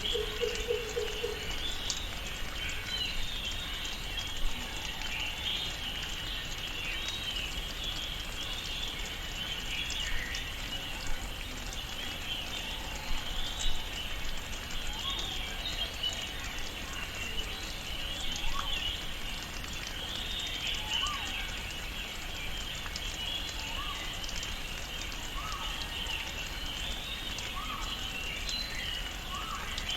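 Tropical rainforest ambience: a dense, continuous chorus of high chirping birds and insects. A short, low pitched call sounds right at the start, and through the second half one bird repeats a short rising call about every second and a half.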